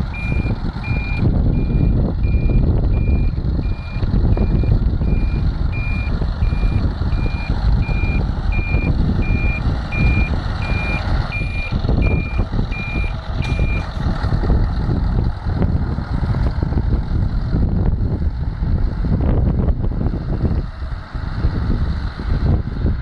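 Scania 500 hp truck's engine running with a heavy, steady rumble while its reversing alarm beeps at an even pace, as the truck backs up to couple to a trailer. The beeping stops about 14 seconds in, when the truck stops reversing, and the engine keeps running.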